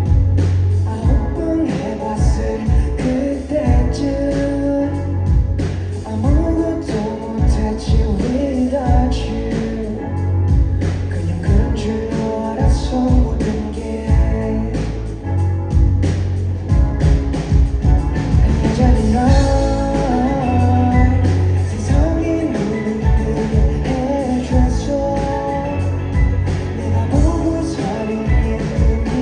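A live rock band playing: a lead voice singing over a steady drum-kit beat, bass and electric guitar.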